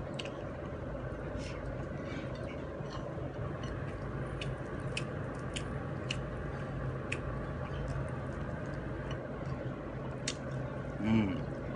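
A person chewing a mouthful of chicken, with scattered small sharp clicks throughout. Near the end there is a short hummed vocal sound.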